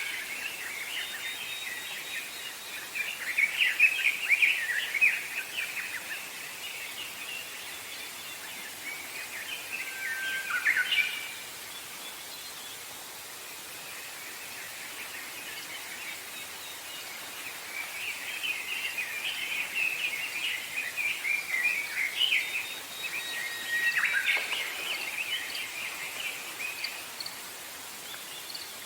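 Songbirds singing in the forest: bouts of quick, high chirping and trilled phrases, with pauses of several seconds between them, over a steady hiss of outdoor background.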